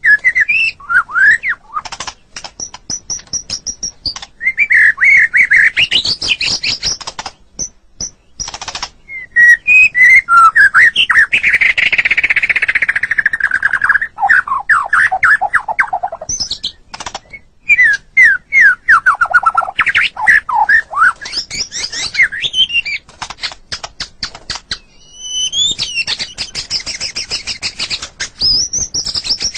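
White-rumped shama singing a long, varied song: loud whistled phrases and sweeps, fast falling runs of notes, dry rattling clicks, and a rapid high trill near the end.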